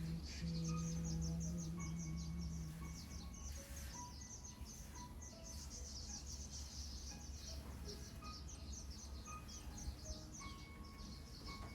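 Outdoor ambience: a dense, unbroken chorus of rapid high chirps from small animals, with scattered short clear notes over it and a steady low hum in the first few seconds.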